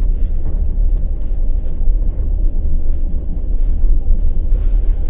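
Passenger express train running on the rails: a steady low rumble of the wheels, with a few faint, irregularly spaced clicks.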